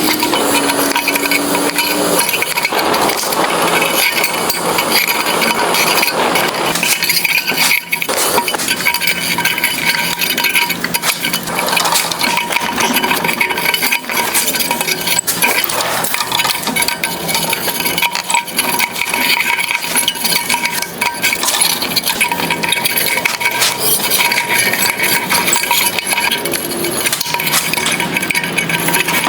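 Rapid metallic clinking and tinkling of pliers working a thin steel rose blank, with many sharp clicks over a steady hiss, sped up.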